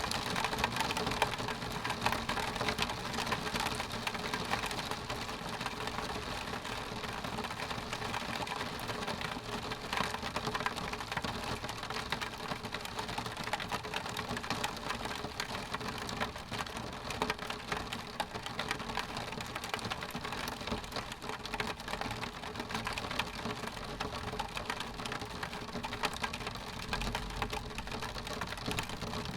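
Steady rain pattering on window glass, a dense run of fine drop ticks without a pause.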